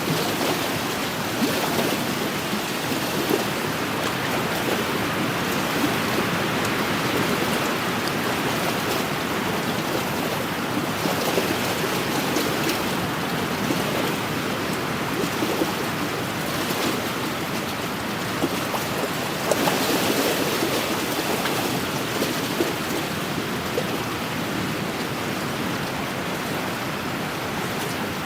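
Wind-driven small waves lapping against a lakeshore: a steady wash of water that swells every few seconds, with small splashes scattered through it.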